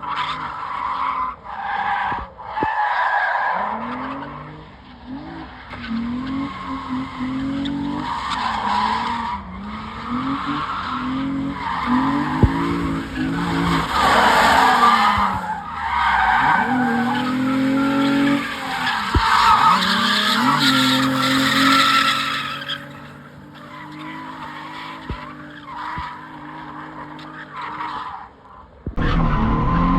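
Drifting car's V6 engine revving up and falling back again and again, with tyres screeching as they slide. The noise eases off for a few seconds near the end, then comes back.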